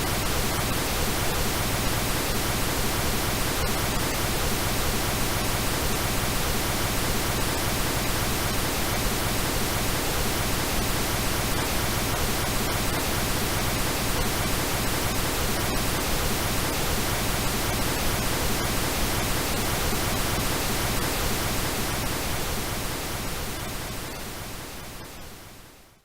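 Steady pink noise, an even synthetic hiss spread across the whole range, fading out over the last few seconds.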